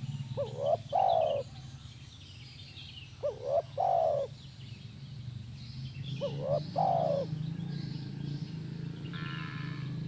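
Spotted dove (tekukur) cooing: three calls about three seconds apart, each two short notes followed by a longer drawn-out coo. A steady low hum runs underneath.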